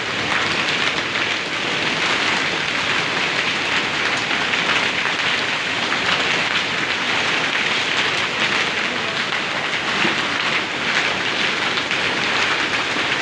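Hail and rain pelting down steadily, a dense hiss of countless small impacts.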